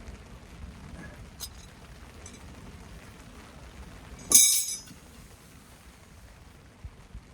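Metal camping gear knocking together: one sharp clink about four seconds in that rings briefly, after a couple of lighter ticks.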